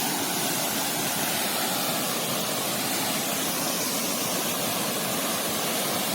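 Small waterfall pouring down in a steady, continuous rush of water.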